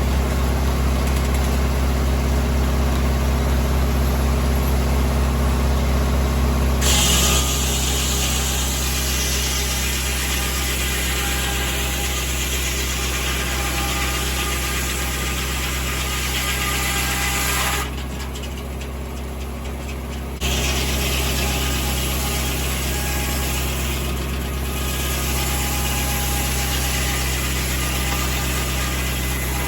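Tractor engine running steadily to drive a 1950 Corley circular sawmill. A hissier, brighter noise joins about a quarter of the way in, drops away briefly about two-thirds through, then returns.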